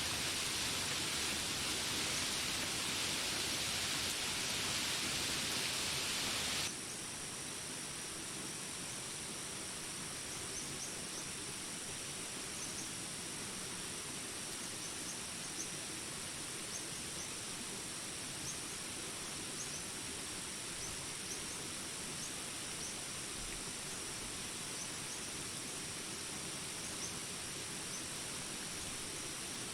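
Steady hiss of rain that cuts off abruptly about seven seconds in, leaving a jungle ambience: a steady high drone of insects with scattered short, high chirps.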